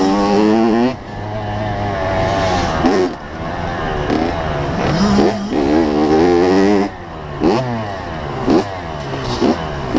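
85cc two-stroke motocross bike engine revving hard and dropping off again and again as the throttle is opened and chopped, with quick short blips of throttle near the end.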